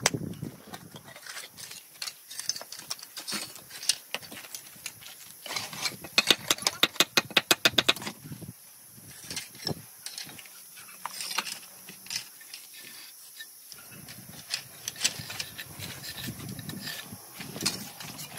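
Bursts of quick, sharp taps of a hard tool striking stone during stone-cladding work, densest in a run of about six taps a second a few seconds in, then sparser.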